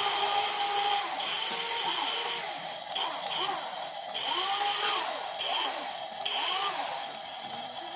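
Small electric motors of radio-controlled metal construction models whining. Their pitch rises and falls repeatedly as they speed up and slow down under the stick controls, with a high gear whine cutting in and out.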